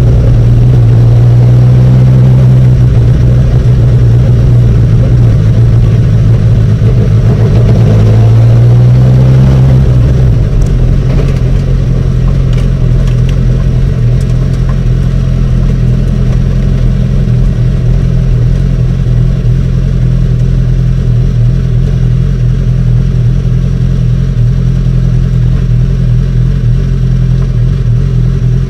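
SpeedCar GT1000's 1000 cc motorcycle engine running at low revs, heard on board as the car rolls slowly at paddock speed. The engine note is loud and shifts a little for the first ten seconds, then drops slightly and settles into a steady, even running.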